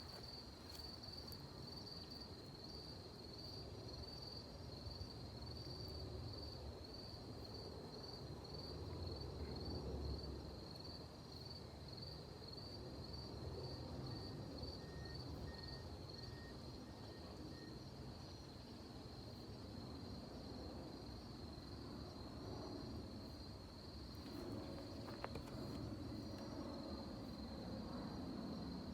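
Faint, steady, evenly pulsed high-pitched chirping of an insect such as a cricket, over a low rumble of outdoor background noise.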